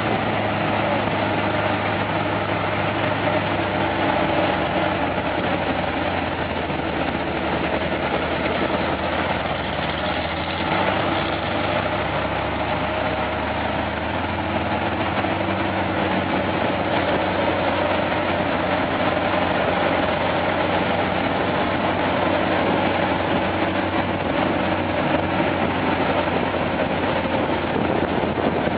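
Kirovets K-700 tractor's diesel engine running steadily, its pitch shifting slightly about halfway through.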